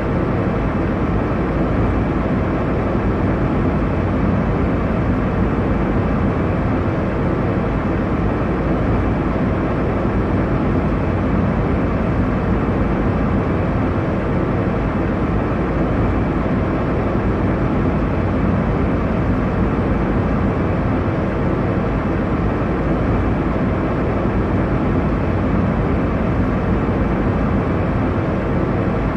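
Airliner cabin noise: a steady, unchanging rumble, strongest in the low end, with a few faint steady hum tones.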